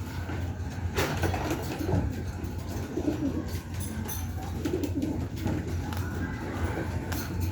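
Pigeons cooing, with a few sharp knocks and a steady low hum underneath.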